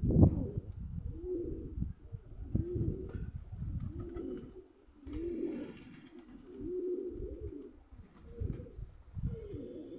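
Domestic pigeons cooing, one low rolling coo after another about once a second, with a brief thump at the very start.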